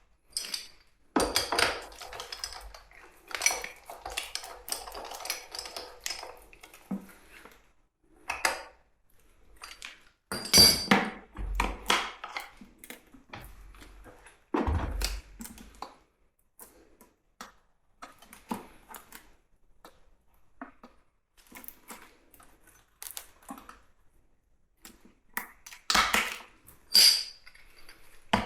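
Metal tools and engine parts clinking, scraping and knocking against each other at irregular intervals, with a few louder clanks, as a petrol rock drill's engine is worked on by hand.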